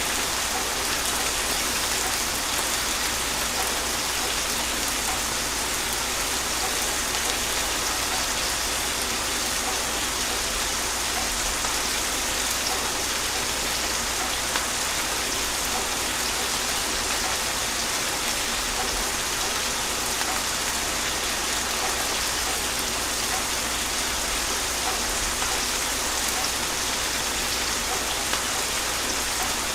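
Steady gentle rain falling on a surface, a continuous hiss of many small drops with no thunder.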